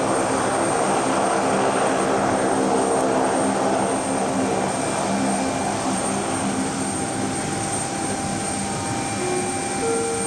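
Saab 340B's twin General Electric CT7 turboprop engines and propellers running, a steady propeller hum with an engine rush that eases slightly about halfway through.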